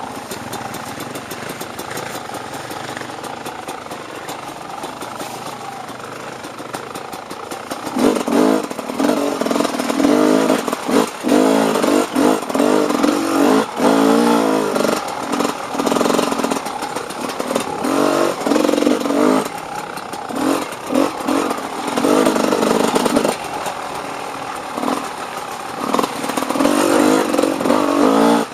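Off-road dirt bike engine running, fairly even for the first several seconds, then revving hard in repeated surges as the throttle is opened and closed.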